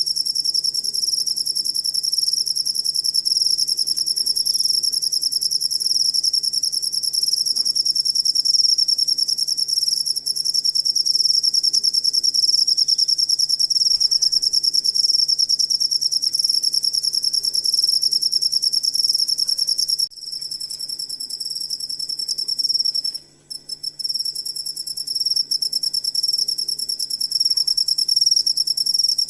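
Cricket chirping in a continuous, rapid, high-pitched trill. About twenty seconds in it becomes quieter, breaks off briefly a few seconds later, then carries on.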